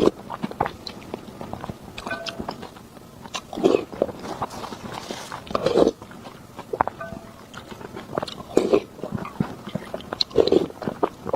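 A person eating close to the microphone: biting and chewing with many small clicks and mouth sounds, and about four louder bursts spaced a couple of seconds apart.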